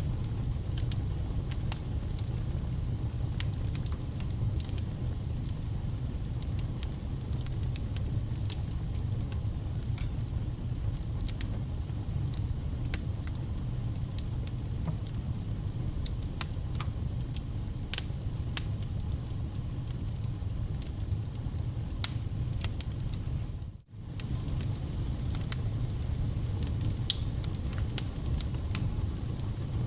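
Wood fire burning: irregular sharp crackles and pops over a steady low rumble. The sound briefly drops out and comes back about three-quarters of the way through.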